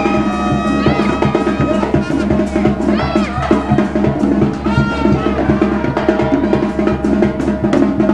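Mexican brass band (banda de viento) playing lively music: bass drum and snare keep up a dense, steady beat under sustained wind-instrument notes with a few bending slides.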